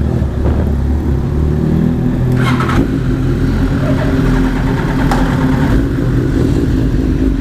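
Suzuki Hayabusa motorcycle engine running steadily at idle. A couple of short, sharper sounds rise above it, about two and a half seconds in and again near five seconds.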